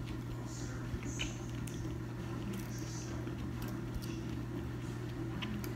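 Quiet chewing and mouth sounds of a person eating, with scattered light clicks of a fork on a plate, over a steady low hum.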